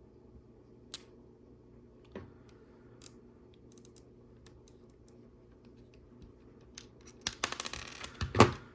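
Small plastic LEGO pieces clicking as they are handled: a few isolated sharp clicks in the first few seconds, then a busy run of clicking and rattling near the end, loudest just before it stops.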